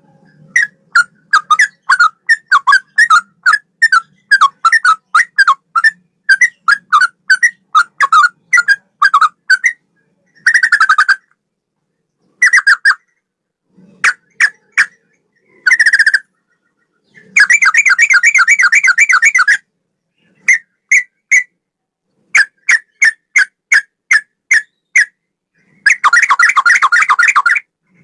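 Yellow-vented bulbul (trucukan) singing in a loud, whistled style like a straw-headed bulbul: a quick run of short notes, about four or five a second, for the first ten seconds. Then come shorter phrases and two longer rapid trills, one about 17 seconds in and one near the end, broken by sudden complete silences.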